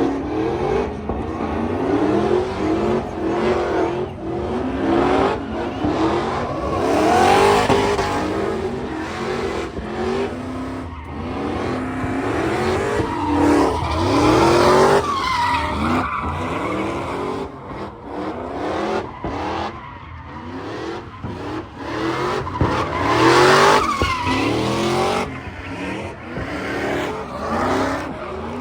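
Several performance car engines revving up and down over one another, with tyre squeal. The revving surges louder three times, about a quarter, half and four-fifths of the way through.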